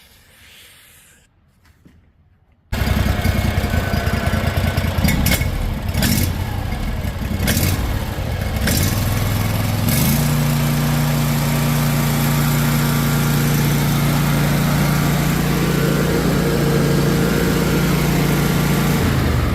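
Engine of a freshly overhauled ride-on power trowel, coming in abruptly about three seconds in after a quiet opening. It runs unevenly with a few sharp knocks at first, then settles into a steady, even run from about ten seconds in.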